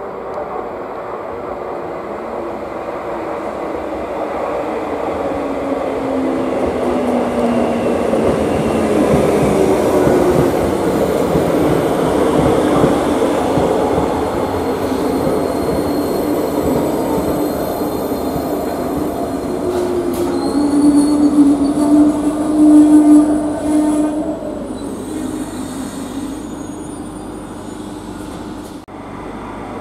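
Renfe Cercanías electric commuter train running through the station and slowing, its motor whine falling in pitch as the rail noise builds. A squeal is the loudest part, about two-thirds of the way through, before the sound dies down.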